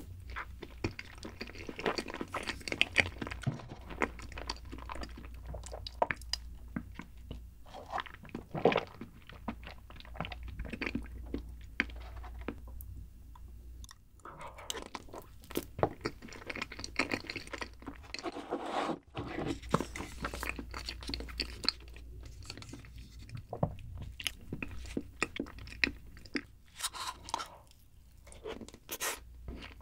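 Close-miked eating sounds of a soft cheesecake: irregular chewing, wet mouth smacks and clicks, with occasional light knocks and scrapes of a wooden spoon.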